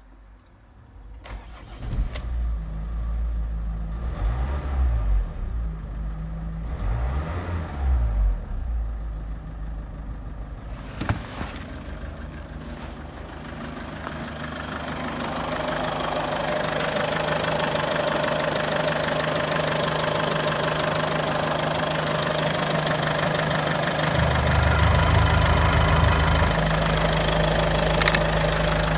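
Mazda 5's 2.0-litre MZR-CD (RF) turbodiesel engine starting about a second and a half in, then idling. It is revved twice, rising and falling, a few seconds later, and then runs on steadily, growing louder, with a deeper note coming in near the end.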